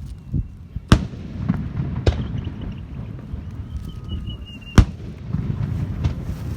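Fireworks going off: three sharp bangs about one, two and nearly five seconds in, the first and last the loudest. A thin whistle runs between the second and third bangs and stops at the last one.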